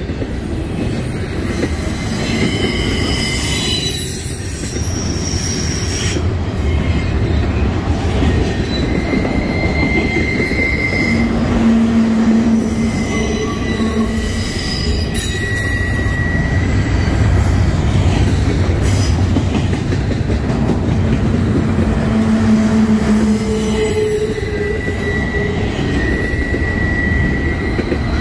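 Double-stack intermodal freight train rolling by: a steady rumble and rattle of well-car wheels on the rails, with squealing wheels coming and going as drawn-out high tones.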